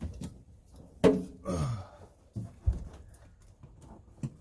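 Handling noise while sound deadener sheets are laid out on the truck's cab floor: a sharp knock about a second in, a short rustle with a brief falling squeak just after, another thump later and a light click near the end.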